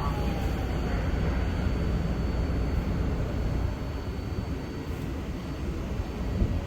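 Steady low rumble of city background noise, with a faint thin high tone held throughout and no distinct event.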